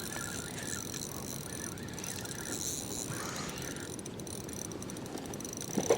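Fishing reel being cranked to bring in a hooked fish, over a steady outdoor hiss.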